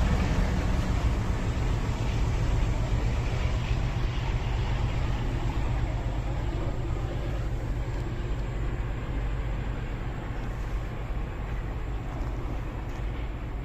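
A train rolling past with a steady rumble that slowly fades as it moves away.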